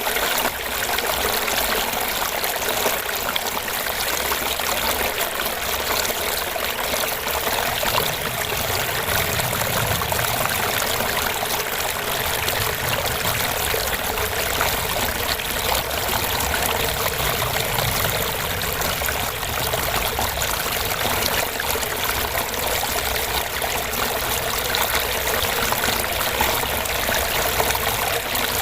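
Small fish pond waterfall: water trickling and splashing into the pond with a steady, even gurgle.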